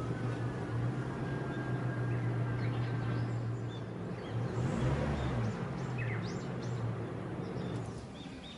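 Steady hum of a vehicle engine running, with another vehicle going past about halfway through as its pitch swings. The hum fades near the end, and a few bird chirps come in.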